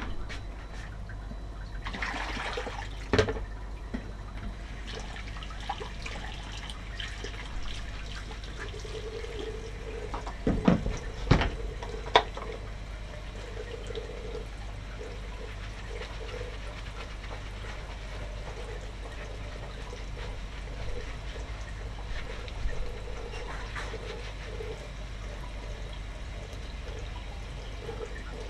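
Steady machine hum with a hissing rush, a wavering mid-pitched tone from about a third of the way in, and a few sharp knocks and clatters, the loudest a cluster about halfway through.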